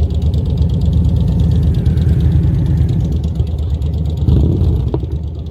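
Motorcycle engine running steadily at low revs, with a rapid low pulsing and a brief rise in level a little after four seconds.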